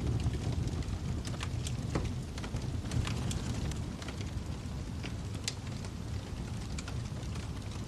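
Wood fire burning in a fireplace: a steady low rumble of flame with sharp pops and crackles at irregular intervals.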